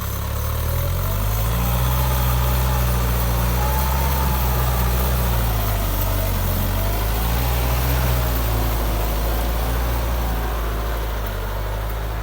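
Kubota M6240SU tractor's diesel engine running steadily, its pitch shifting a little.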